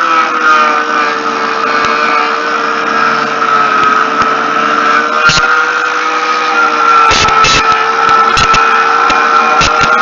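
Electric angle grinder fitted with a sanding disc, running at full speed with a steady whine. From about five seconds in come several short hard scrapes as the disc bites into a window seal.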